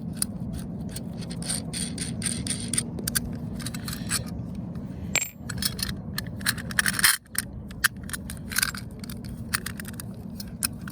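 Exhaust pipe pieces and hardware being worked apart by hand: repeated metal clinks, knocks and metal-on-metal scraping, loudest in a burst just before seven seconds in. A steady low hum runs underneath.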